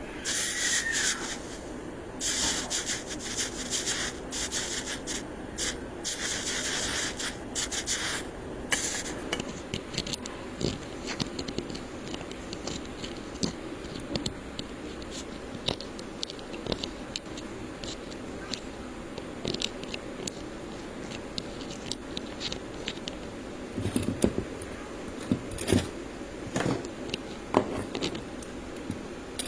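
Hand work on electrical wire: long rubbing and scraping strokes for the first nine seconds or so, then scattered light clicks and taps, with a few louder knocks near the end.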